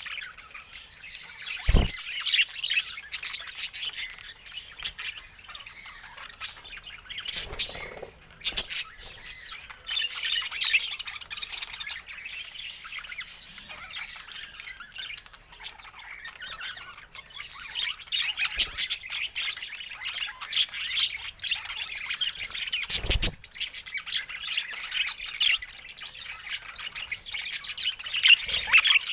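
Budgerigars chattering, warbling and chirping without a break, with a few sharp knocks now and then.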